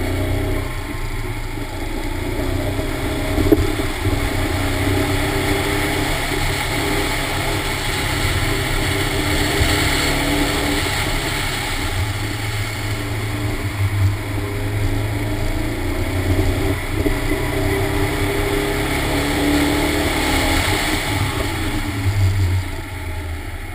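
Toyota AE86 Corolla's 1.8-litre four-cylinder 7A-GE stroker engine under hard driving, rising and falling in pitch as the car accelerates and slows between cones, over a heavy low rumble. A single sharp knock about three and a half seconds in, and the engine note drops away near the end.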